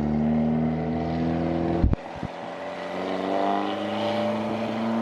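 Car engine running steadily. About two seconds in there is a sharp thump, after which the deep rumble falls away and the engine note climbs a little.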